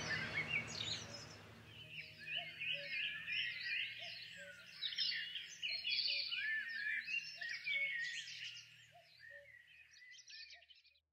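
Several songbirds singing at once, a dense chorus of chirps and trills that fades away near the end.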